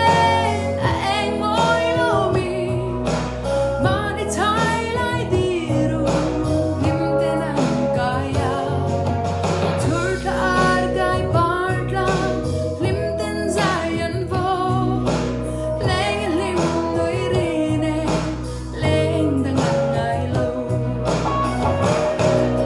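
A song: a singing voice with vibrato over steady instrumental backing and a low bass line.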